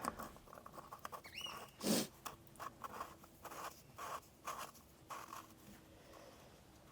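Small handling sounds of a filler cap being put back on and tightened: a short squeak, then one louder scrape about two seconds in, followed by light clicks and rustles.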